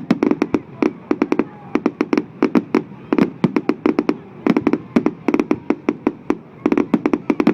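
Fireworks going off in a rapid, irregular barrage of bangs, several a second.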